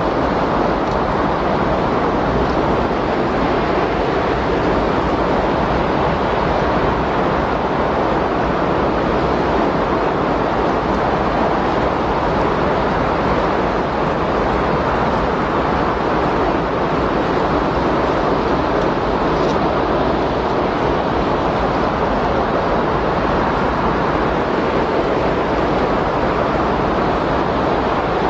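Windstorm sound: a steady, even rush of wind with no distinct gusts or breaks.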